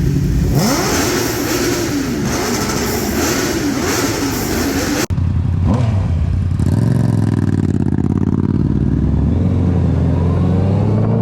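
Motorcycle engine revving, its pitch rising and falling quickly. After an abrupt cut about five seconds in, an engine runs low and steady, then climbs slowly in pitch as it accelerates.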